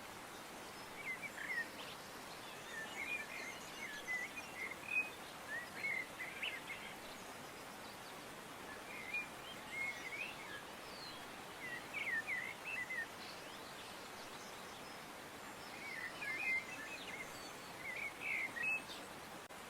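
Small birds chirping in short twittering bursts that come in clusters every few seconds, over a steady background hiss.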